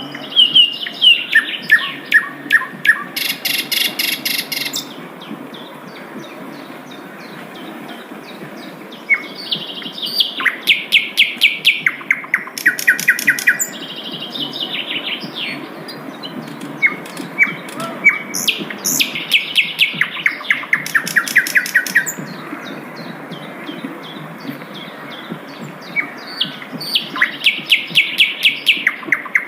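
Sikatan londo flycatcher singing: phrases of fast, evenly repeated notes, each lasting a few seconds and often stepping down in pitch, with pauses between, over a steady low background hum.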